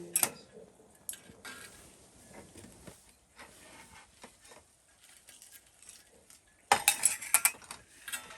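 Metal utensils clinking and scraping against cookware. There are a few light clinks at first, then a burst of rapid clattering near the end.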